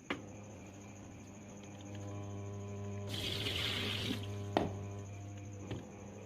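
Samsung top-loading washing machine running on a newly fitted control module: a click as it switches on, then a steady electrical hum, with a short rush of water about three seconds in and another click a little later.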